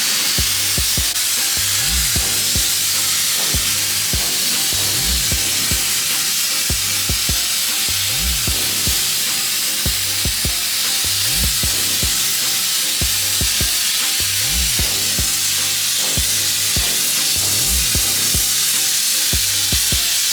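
Sandblaster blasting abrasive at the car body, a steady loud hiss, under background music with a low beat repeating about every three seconds.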